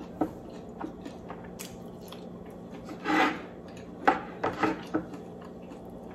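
Close-miked chewing and mouth sounds of a person eating seafood and rice by hand: a few short wet clicks and smacks, and one brief noisy rush about halfway through. A faint steady hum runs underneath.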